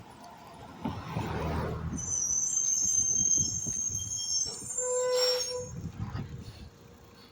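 Garbage truck working: a low engine rumble swells about a second in, then a high-pitched metallic squeal runs for about two and a half seconds, followed by a short steady tone.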